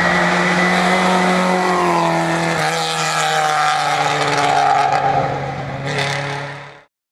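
Lada 2107 rally car engine running hard at steady high revs, its pitch dropping slightly about two and a half seconds in. There is a sharp crack near six seconds, then the sound fades out quickly just before the end.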